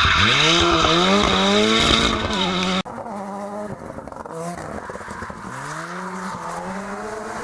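Ford Sierra Cosworth rally car's turbocharged four-cylinder revving hard, its pitch climbing and then dropping at each gear change. The sound cuts off abruptly about three seconds in and picks up again, quieter, with the same rising revs and gear changes.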